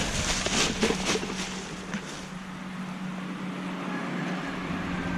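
A motor vehicle's engine running with a steady hum, growing louder toward the end. There are a few short rustles or clicks in the first second or so.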